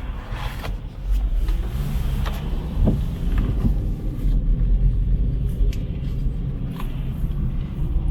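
Road traffic: cars driving past with a steady low rumble, with a few scattered clicks and taps.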